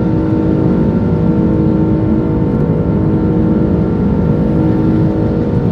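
Airbus A330 jet airliner cabin noise: a steady engine drone with a constant hum of several fixed tones, holding level throughout.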